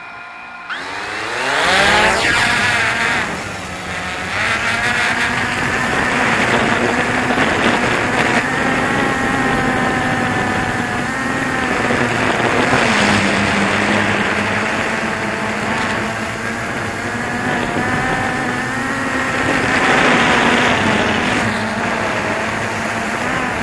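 DJI Phantom 2 quadcopter's motors and propellers spinning up in the first two seconds, then running hard with a whine whose pitch wavers up and down.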